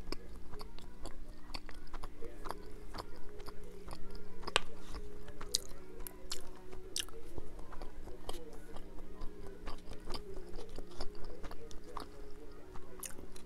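Close-miked chewing of fried rice, with frequent small clicks and smacks of the mouth.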